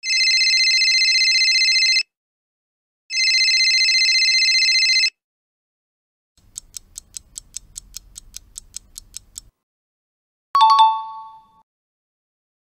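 A string of sound effects: two bursts of a trilling electronic telephone ring, each about two seconds long; then even ticking about five times a second for about three seconds; then a sharp click with a short ding.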